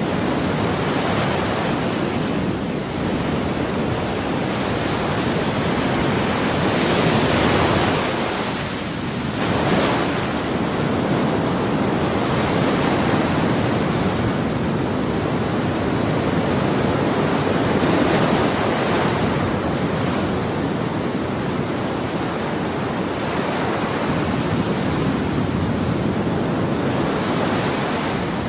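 Ocean waves breaking and washing in a continuous rushing surf, swelling and easing every few seconds.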